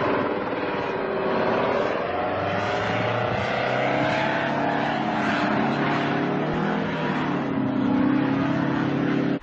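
A tiltrotor aircraft's engines and rotors make a steady drone whose pitch wanders up and down.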